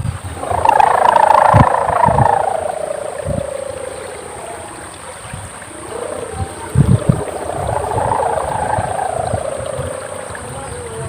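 Sendaren hummer on a flying gapangan kite wailing in the wind: two long, loud swells, each one starting high and sliding down in pitch.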